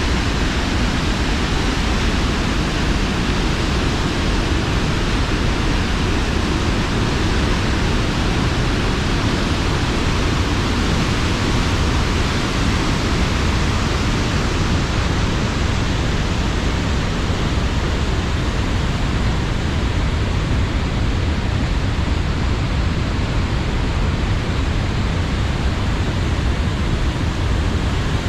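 Tännforsen waterfall: a large waterfall's water rushing loudly and steadily, an even noise with no let-up.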